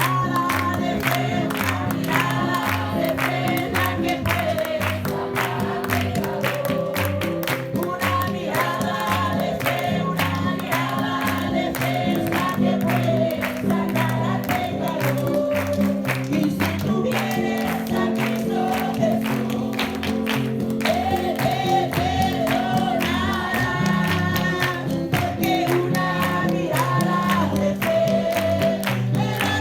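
Group of voices singing Spanish evangelical revival choruses (coros de avivamiento) in a fast fogata medley, over a band with a steady driving beat and bass.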